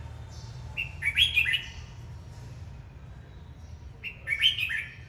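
Red-whiskered bulbul singing two short, quick warbled phrases about three seconds apart, over a low steady hum.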